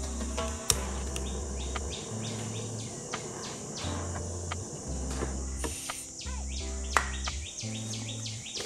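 Birds chirping in quick short calls over a low humming tone that steps between pitches every second or so. Two sharp knocks, one just under a second in and one about seven seconds in.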